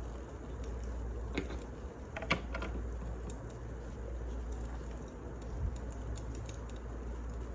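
Wood fire crackling: scattered sharp pops and small ticks over a steady low rumble, the loudest a double pop a little over two seconds in.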